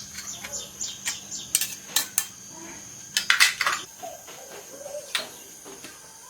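Irregular metallic clinks and taps of small metal parts and hand tools being handled during workshop repair work, loudest in a quick cluster a little past halfway. A steady high-pitched whine sits in the background.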